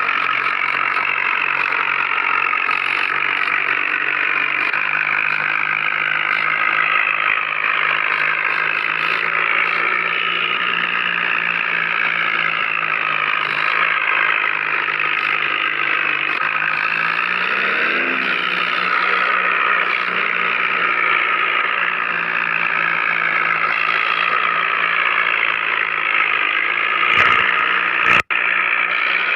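Tractor engine running steadily. Its pitch steps up about five seconds in and climbs briefly a little past halfway as it revs, and the sound cuts out for a moment near the end.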